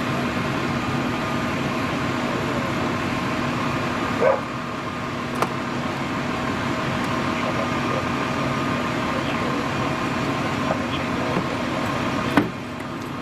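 Steady mechanical hum of an idling vehicle engine or equipment, with a dog barking about four seconds in and again near the end.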